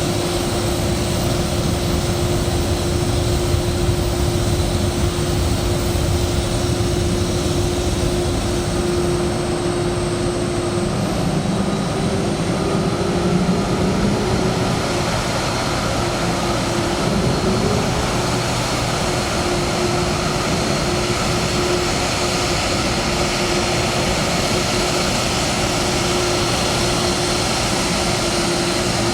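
Steady aircraft engine noise with a held hum that wavers in pitch for a few seconds around the middle.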